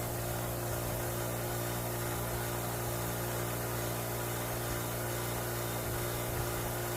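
Bench-mounted wire wheel running steadily: a constant electric motor hum under an even hiss.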